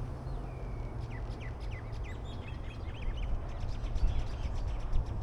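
Small birds chirping in a rapid series of short, high calls, with one longer falling call near the start, over a steady low rumble.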